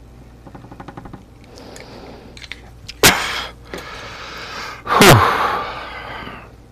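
A person sneezing twice, two loud sudden sneezes about two seconds apart, the second louder with a falling pitch. A short rapid rattle comes before them, less than a second in.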